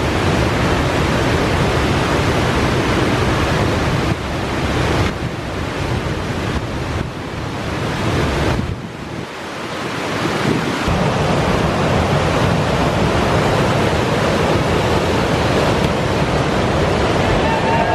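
Whitewater of a steep mountain torrent rushing through rapids, a loud steady roar, with wind buffeting the microphone.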